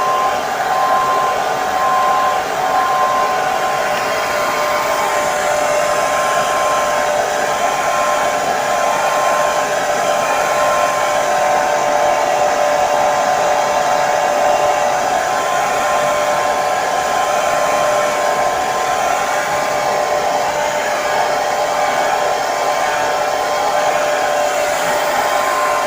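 Handheld hair dryer running steadily: a continuous rush of blown air with a steady motor whine.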